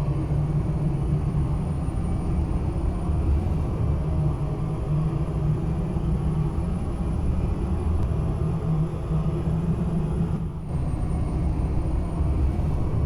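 Ashok Leyland truck running on the road: a steady low engine and road rumble, with a short dip about ten and a half seconds in.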